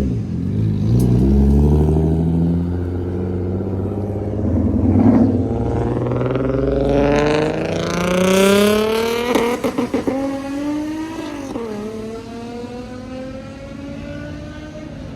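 A car launching hard and accelerating away, its engine note climbing steadily in pitch for several seconds. Around ten seconds in the sound stutters briefly, then the pitch drops and climbs again as it fades.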